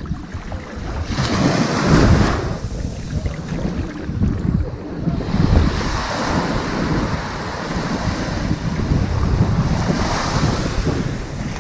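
Ocean surf washing onto a sandy beach, a steady wash of water that swells three times as waves break and run up the sand.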